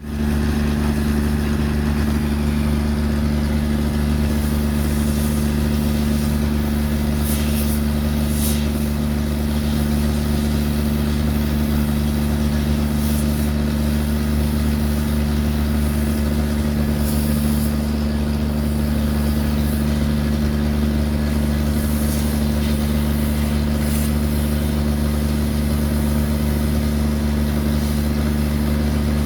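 Excavator's diesel engine running steadily at an even pitch, with a few faint short clinks now and then.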